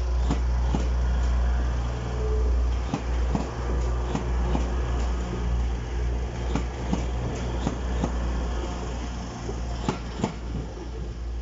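TransPennine Express Class 185 diesel multiple unit, with its Cummins QSK19 underfloor diesel engines, passing close over a level crossing. A steady low engine and rolling rumble runs throughout, with the wheels clacking sharply over the rails many times, the loudest pair of clacks near the end.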